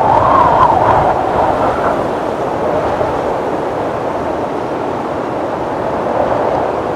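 Strong wind blowing, with a wavering whistling tone over a steady rush. It is loudest in the first two seconds and then eases.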